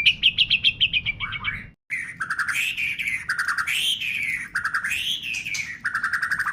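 White-rumped shama (murai batu) singing. A fast chattering run of notes breaks off about two seconds in. Then comes a repeated phrase of quick notes, each time ending in a rising-and-falling whistle.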